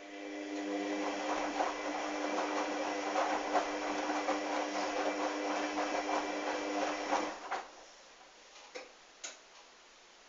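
Hoover washing machine's motor turning the drum during the wash, a steady whine over towels and sudsy water churning, stopping about seven and a half seconds in; a few light clicks follow.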